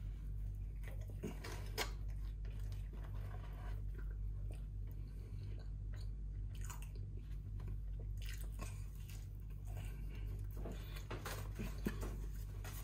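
Close-up chewing and mouth sounds of a person eating, with scattered sharp clicks and small crunches, over a steady low hum.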